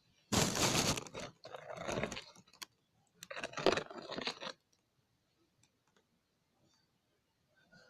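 Hands squishing and kneading freshly activated slime: wet, crackling squelches in three bursts over the first few seconds, then it goes still.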